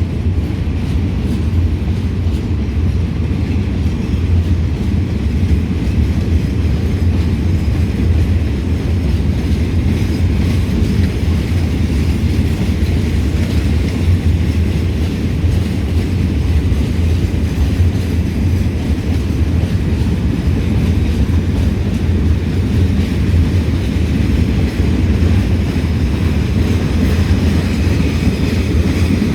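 Freight train rolling past at low speed, a steady loud rumble of wheels on the rails.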